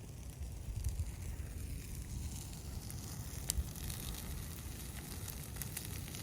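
Vegetation burning in a prescribed burn, crackling with scattered sharp pops over a low rumble; one louder pop comes about three and a half seconds in.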